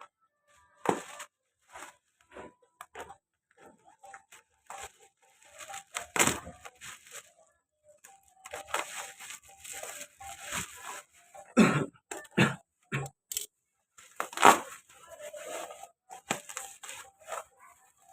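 Packaging being handled and opened: irregular tearing and crinkling with scattered knocks and clicks, the loudest knocks about two thirds of the way in.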